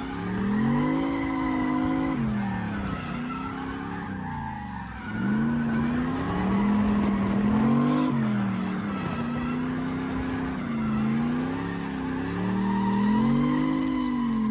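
Drift car's engine revving up and falling back over and over as the throttle is worked through a drift, with tyres skidding.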